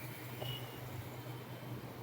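Steady low hum of a motorcycle riding along, with faint road and wind noise. A short faint high beep sounds about half a second in.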